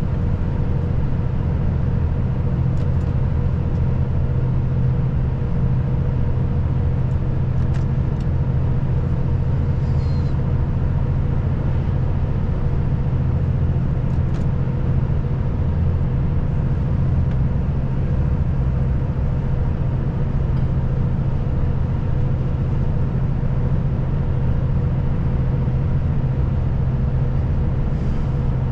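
Volvo FH540 truck's 13-litre straight-six diesel running at a steady drone under way, mixed with road noise, with a few faint ticks.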